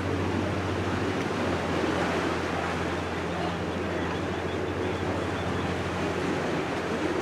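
Water rushing and splashing with wind on the microphone, over the steady low hum of a boat's motor.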